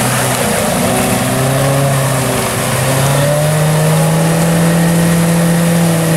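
Small Suzuki 4x4's engine revving hard as it pushes through deep mud, its pitch climbing slowly and then held high, with mud and water churning under the wheels.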